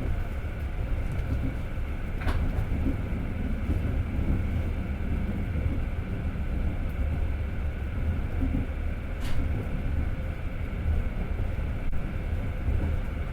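Passenger train running at speed, heard from inside the carriage: a steady low rolling rumble of wheels on rail, with two brief sharper sounds about two seconds and nine seconds in.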